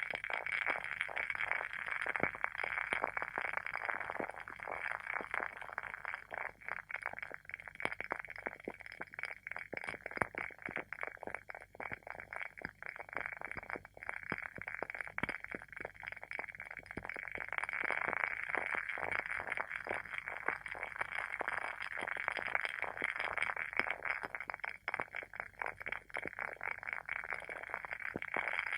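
WoodWick candle's wooden wick burning with a dense, continuous crackle of small pops over a steady hiss.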